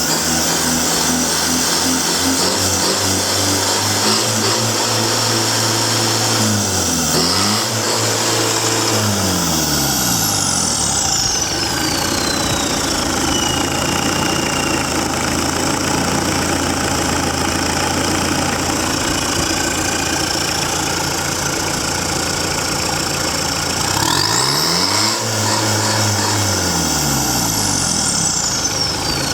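Low-hour turbocharged Perkins 404 four-cylinder diesel engine running. Its revs drop and come back up about seven seconds in, and rise and fall again about twenty-five seconds in. Each change is followed by a high whine sliding down in pitch.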